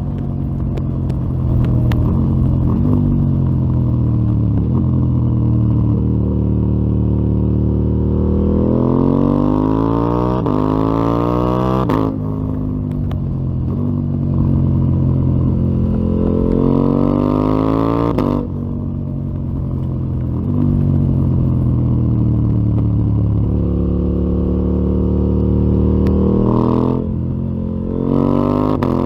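KTM 890 Duke R's parallel-twin engine through a full Akrapovic exhaust, on the move. Three times it pulls hard with the pitch climbing, then the throttle snaps shut about 12 and 18 seconds in and again near the end, the pitch falling away.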